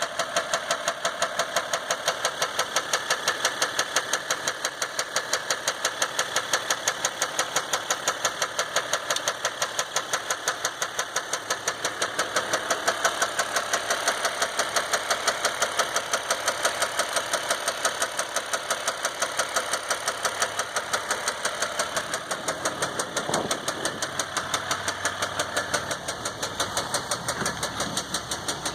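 2015 EcoDiesel 3.0-litre V6 turbodiesel running steadily with a rapid, evenly spaced knock at every turn of the engine. At only 18,000 miles, with no check-engine light and normal gauges, the knock comes with a loss of power and heavy shaking, which the owner takes for a serious internal engine fault.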